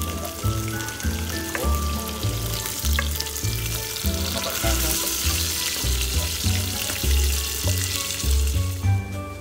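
Food sizzling as it fries in hot oil in a pot, the hiss stopping near the end, over background music with a steady bass beat.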